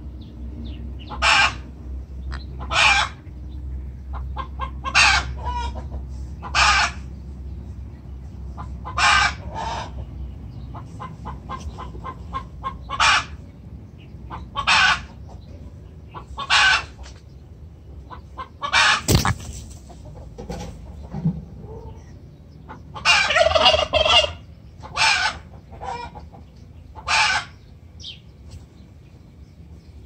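Short, loud bird calls repeated every second or two, with a rapid run of calls about three-quarters of the way through and a single sharp click a little before it.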